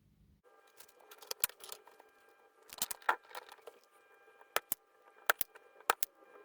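Sharp, irregular clicks and taps over a steady hum of several tones that cuts in abruptly about half a second in.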